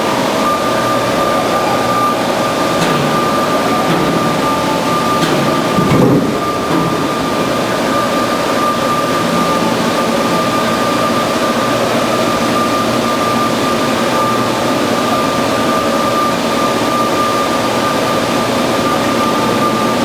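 Band saw running steadily with a constant high whine over mechanical noise, with a brief louder swell about six seconds in.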